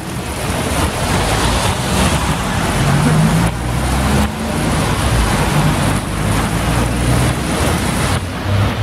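Road traffic passing on a wet street in the rain: the hiss of tyres and rain with the hum of vehicle engines shifting in pitch.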